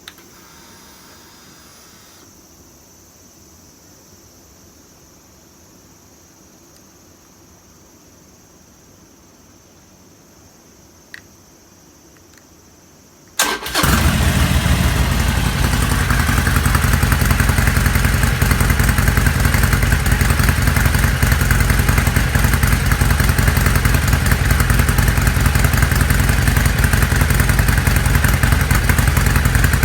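Harley-Davidson Roadster XL1200CX's air-cooled 1200 cc V-twin cranked and fired up after about thirteen seconds of quiet, with a single click shortly before, then idling loudly and steadily through its exhaust.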